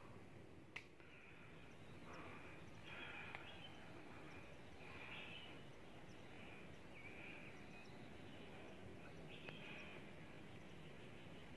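Faint bird calls: short high chirps repeating every second or two over a low background hiss, with one sharp click about a second in.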